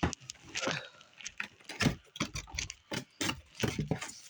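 A cardboard box holding a mini fridge being handled and opened: irregular clicks, knocks and scrapes, several a second.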